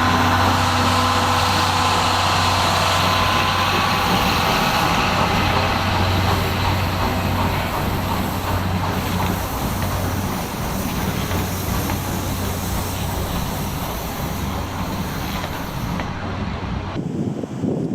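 A train running past close by: rumbling noise over a steady low hum, with a high squeal in the first few seconds that fades away. The sound changes abruptly about a second before the end.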